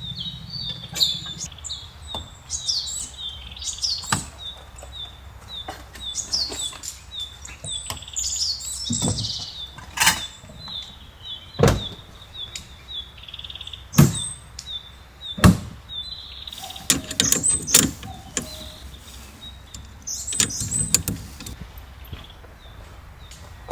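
Scattered sharp knocks and clatter from handling gear, a dozen or so spread unevenly, over birdsong with a steady, rapidly repeating high chirp.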